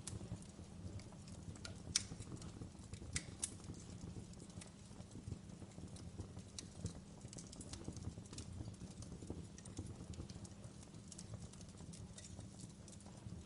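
Wood fire crackling in a fireplace: frequent small irregular snaps and pops over a low, steady rush of burning. A few sharper pops stand out about two and three seconds in.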